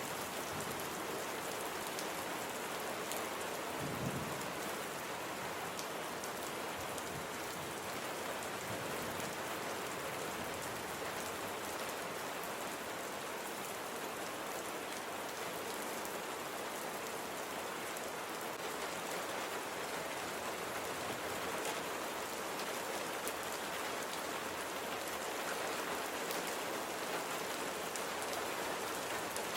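Steady rain falling on a surface, with scattered individual drops ticking through it. One brief low thump sounds about four seconds in.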